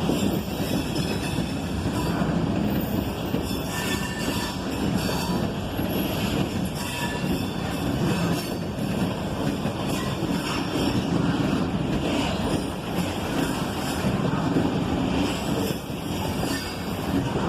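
Freight train cars rolling steadily past, with faint high-pitched wheel squeal coming and going and scattered clicks of wheels over the rail joints.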